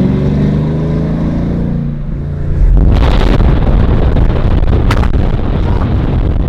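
Loud-exhausted 2015 Camaro 1LE V8: revs fall away for a couple of seconds, then it suddenly accelerates hard and loudly. About two seconds into the pull there is one sharp crack like a gunshot, typical of the car's exhaust backfire.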